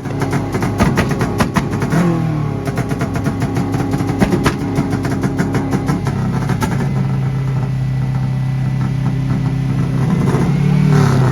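Car engine revving and falling back, with rapid crackling pops through the first several seconds. It then holds a steady drone and rises again near the end.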